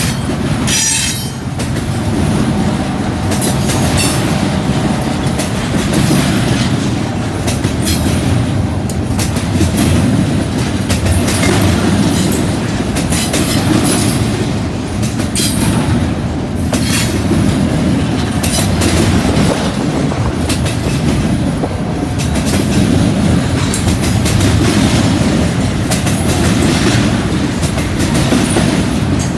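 Freight train rolling past: a steady, loud rumble of railcars with irregular clacks of steel wheels over the track.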